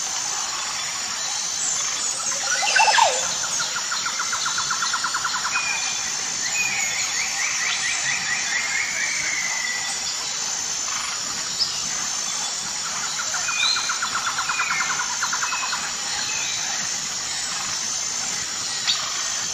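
Birdsong: scattered short chirps and several rapid trills, one of them sliding down in pitch, over a steady high-pitched background. A louder downward chirp comes about three seconds in.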